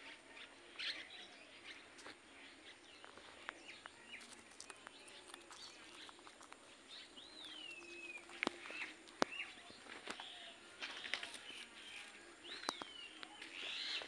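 Faint bird calls: a few short chirps and two descending whistled calls, one about seven seconds in and one near the end, with scattered light clicks.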